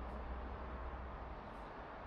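Steady outdoor background noise: an even hiss with a constant low rumble underneath.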